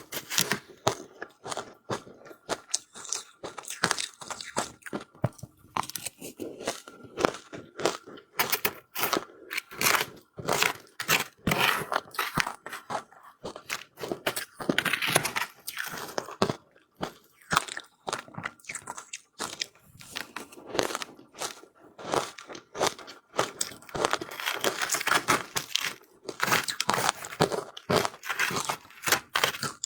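Close-miked crunching of powdery ice being bitten and chewed, many sharp irregular crunches in quick clusters.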